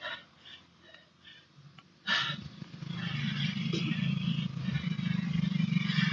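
A motor vehicle's engine running close by, a steady low hum starting about two seconds in, after a couple of faint short breaths.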